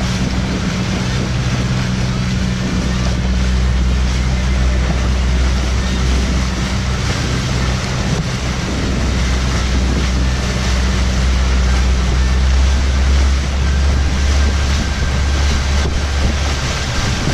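Boat engine running steadily under way, a constant low hum, mixed with rushing water and wind buffeting the microphone.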